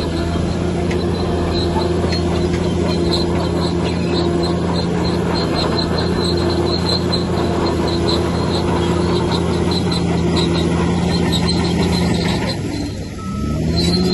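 Bulldozer's heavy diesel engine running steadily under load, with its steel tracks squeaking in a rhythm of about two to three squeaks a second. Near the end the engine drops briefly, then revs up again with a rising whine.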